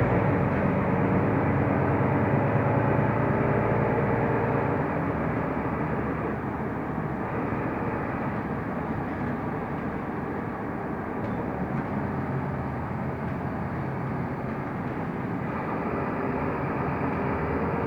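Cabin noise of a Mercedes-Benz O345 Conecto LF city bus underway: engine and road noise, getting quieter about four seconds in as the bus eases off, then staying lower.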